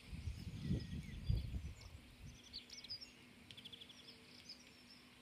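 Small birds chirping and singing in short high calls, with low gusts of wind rumbling on the microphone in the first two seconds.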